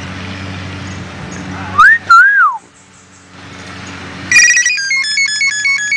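A bird mimicking a cell phone: two loud whistled glides about two seconds in, then near the end a quick, ringtone-like melody of alternating beeping tones.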